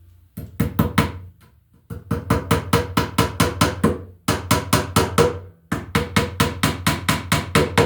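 A hammer driving the nail of a plastic cable staple into wood framing: quick, even strikes about five a second, in a short run of four and then three longer runs with brief pauses between.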